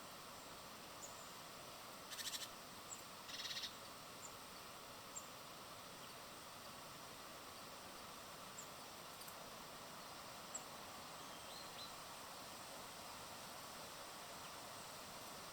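Faint outdoor ambience at a bird feeder: a steady hiss with scattered faint high chirps from small birds, and two short buzzy calls about two and three and a half seconds in.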